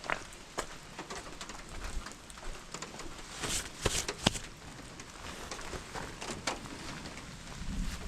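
Camping gear being handled while packing up: scattered light clicks, taps and knocks over a soft steady hiss, with a cluster of louder knocks a little past halfway.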